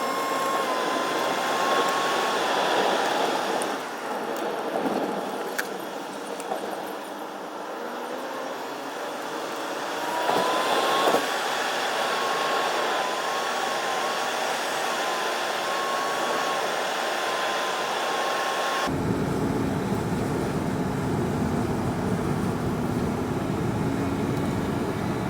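Minivan on the move: steady road and engine noise with a faint wavering whine. About 19 s in it changes abruptly to a deeper, steady rumble with a low hum.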